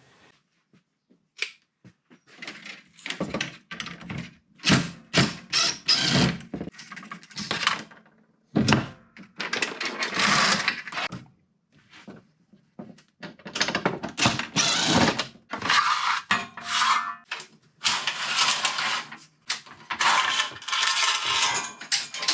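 Metalwork on a pop-up camper lift arm: repeated short bursts of a power tool and knocks and clanks of metal parts, starting and stopping.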